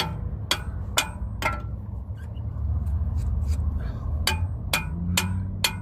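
Hammer striking metal in sharp, ringing blows, about two a second: a run of three or four, a pause, then another run. The hammering is working a stuck keeper ring loose on a Ford truck's tie rod. A low steady rumble runs underneath.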